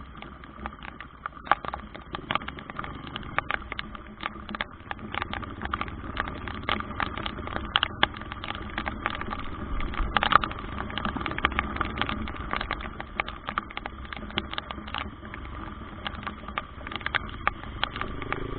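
Heavy rain, with drops tapping irregularly and sharply close to the microphone over a steady low rumble.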